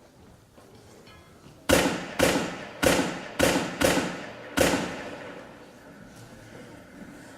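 Six sharp bangs at uneven intervals over about three seconds, each with a trailing echo.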